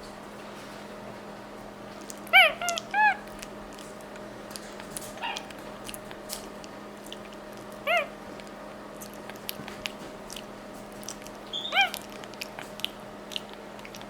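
Capuchin monkey's short squeaky chirps while it eats a banana: three quick chirps that rise and fall about two seconds in, one near eight seconds and one near twelve, with small clicks of chewing and lip-smacking between.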